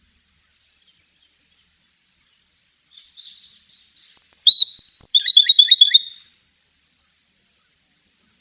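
A songbird sings one phrase of about three seconds: a few soft rising notes, then loud, sharp whistled notes and a quick run of chirps.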